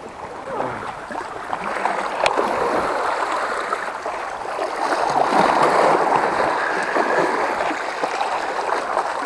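Seawater washing and splashing among shoreline rocks, a steady rushing wash that swells about five seconds in.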